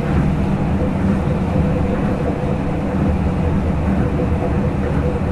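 Tokyo Monorail 2000 series train running at a steady speed, heard in the cabin directly above the motors: an even low rumble of the rubber-tyred bogies on the guideway, with a faint steady tone over it from the Hitachi IGBT VVVF motor drive.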